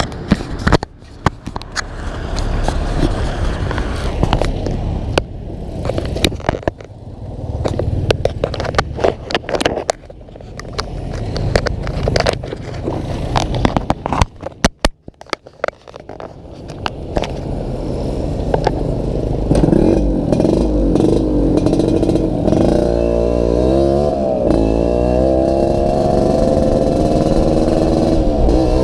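Yamaha RX-King 135 cc two-stroke single-cylinder motorcycle running with its exhaust rattling and jingling badly, full of sharp metallic clicks. About two-thirds of the way through the engine note comes clear and is revved up and down several times.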